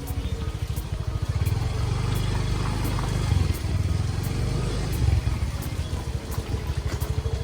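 Motorbike engine running as the bike is ridden slowly: a steady low rumble with a couple of brief swells in level.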